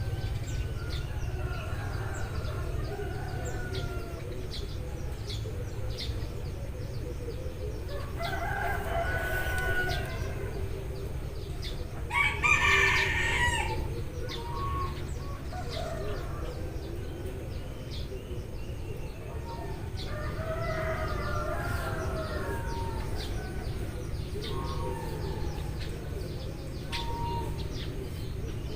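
Eurasian tree sparrows chirping continuously, with a rooster crowing three times: about eight seconds in, louder about twelve seconds in, and again about twenty seconds in. A steady low rumble runs underneath.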